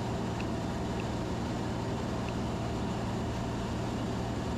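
Steady drone of a Van's RV-10's single piston engine and propeller in flight, heard from inside the cabin, with a constant low hum underneath.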